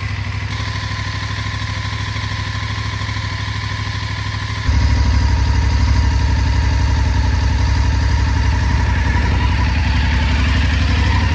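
2019 BMW F850GS Adventure's 853 cc parallel-twin engine idling steadily through an Akrapovic exhaust. The sound gets suddenly louder and deeper about halfway through, then holds steady.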